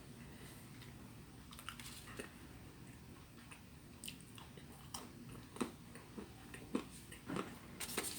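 A person chewing food with close-up mouth sounds: scattered wet clicks and smacks, coming more often in the second half.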